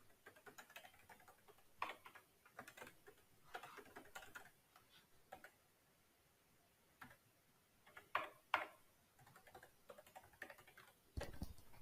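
Faint, irregular keystrokes on a computer keyboard, typing into form fields, with two louder clicks about eight seconds in.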